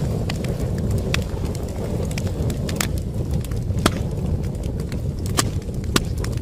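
Wood fire crackling: a steady low rumble of burning logs with sharp, irregular pops and snaps, the strongest about three and four seconds in.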